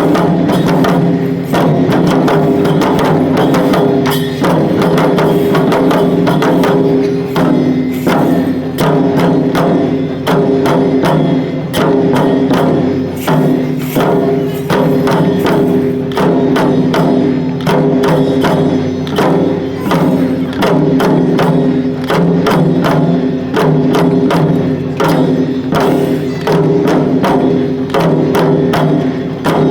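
Shishimai lion-dance accompaniment: a drum beating a fast, steady rhythm over steady ringing tones.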